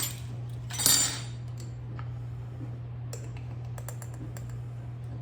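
Kitchen utensils handled at a mixing bowl: a brief scrape about a second in, then a few light clicks. A steady low hum runs underneath.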